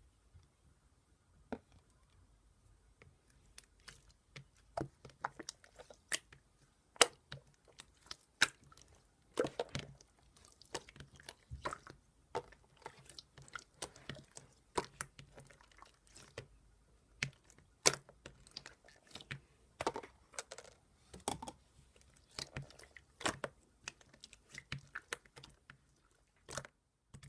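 Clear, bouncy konjac-style slime being squeezed and poked by hand, making irregular sticky clicks and small squishy pops.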